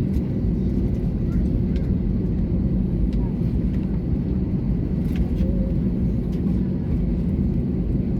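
Steady low rumble of an Airbus A320neo heard from inside the passenger cabin, with a faint constant hum and a few light ticks.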